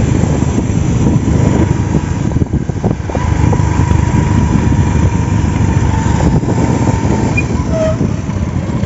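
Steady, loud low rumble of a vehicle on the move, with a faint steady whine above it.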